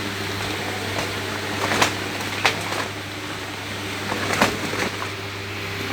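A steady low electrical hum over a hiss of room noise, with a few short light clicks or knocks.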